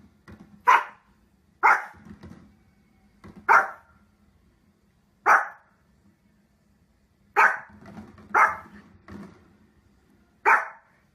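A dog barking: about seven loud single barks, spaced irregularly one to two seconds apart, with softer sounds in between.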